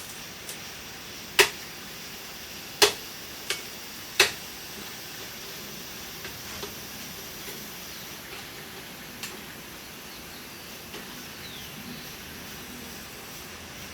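Four sharp knocks in the first few seconds, then a few faint ticks, over a steady low hiss.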